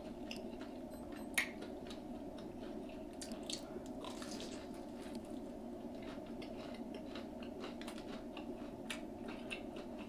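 Close-miked chewing of a deep-fried, battered king crab leg: wet mouth sounds with scattered short crunches and clicks, the sharpest about a second and a half in, over a steady low background hum.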